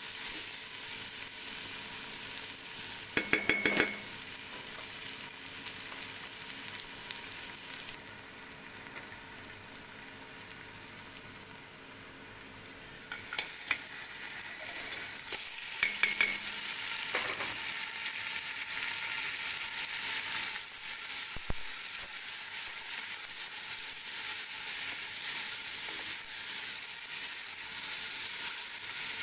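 Food sizzling in hot oil in a stainless steel pot, stirred with a wooden spoon. A few sharp metallic clinks with a short ringing note come about three seconds in and again about sixteen seconds in. Raw shrimp are tipped in from a metal colander about fourteen seconds in, and the sizzling is louder after that.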